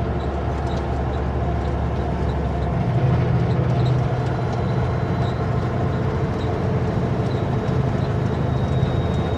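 Heavy truck's diesel engine running steadily, heard from inside the cab; its low note changes about three seconds in.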